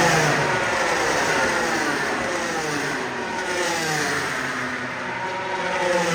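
MotoGP race motorcycles' 1000 cc four-cylinder engines at full revs, the pitch falling as the bikes pass and climbing again near the end.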